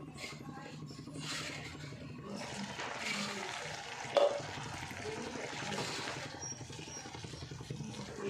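Cooking noise of food being worked in a pan, with one sharp metallic clink of a utensil about four seconds in, over a steady low hum.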